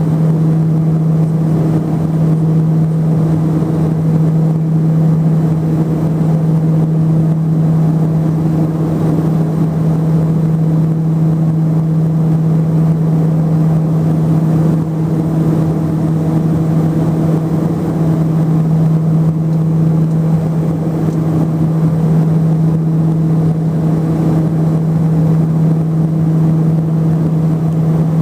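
LET-410's twin turboprop engines and propellers heard inside the cabin in flight: a steady drone with a strong, unchanging low propeller hum.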